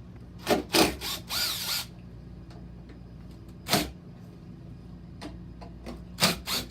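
Impact driver running in short bursts as it backs out the side screws of a Blizzard machine's cover. There are several quick bursts in the first two seconds, one with a wavering whine, then another burst midway and two more near the end.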